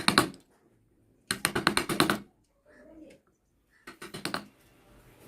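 Three short bursts of rapid clicking, each under a second long, with quiet gaps between them.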